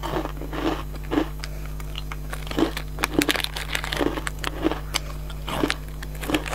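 Crisp caramel biscuit being chewed close to the microphone, a crunch about every half second. The plastic biscuit wrapper crinkles as it is handled in the second half.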